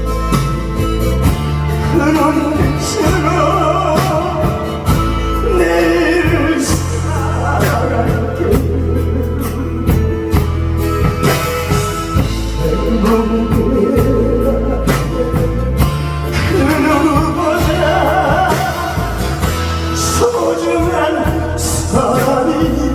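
A pumba street performer singing into a microphone over a loud amplified backing track, the voice carrying a continuous melody above a steady bass line.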